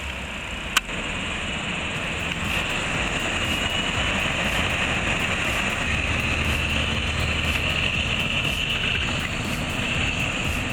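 An engine running steadily at high revs, with a single sharp click just under a second in.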